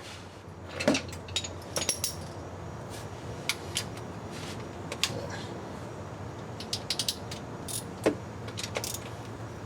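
Hand tools on transmission oil pan bolts: a ratchet and socket clicking and metal clinking in short irregular bursts as the bolts are worked loose, over a steady low hum.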